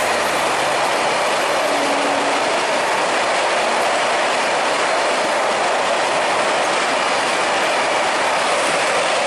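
Passenger train coaches passing at speed close by: a steady loud rush of wheels running on the rails, with a light clickety-clack.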